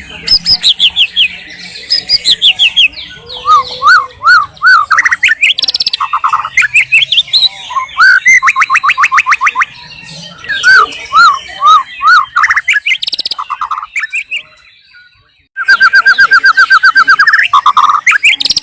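White-rumped shama (murai batu) singing a loud, varied song of rapid trills, rising and falling whistles and runs of repeated chirps. The song breaks off briefly about three-quarters of the way through, then resumes with a fast run of repeated notes.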